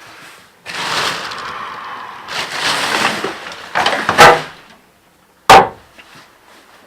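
Irregular scraping and rustling noise for about three seconds, then a few loud clattering bursts, then a single sharp wooden knock about five and a half seconds in, the loudest sound here.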